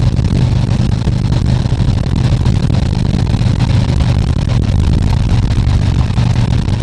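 2020 Harley-Davidson Tri Glide Ultra's V-twin engine running steadily while riding, with wind and road noise on the helmet-mounted microphone.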